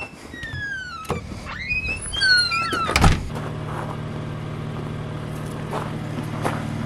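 A BMW M3's twin-turbo straight-six idling steadily from about three seconds in, just after a sharp thud; before that, several high squeals slide down in pitch.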